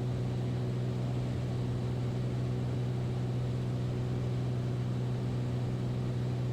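Beechcraft Bonanza A36's piston engine and propeller droning steadily in flight, a constant low hum.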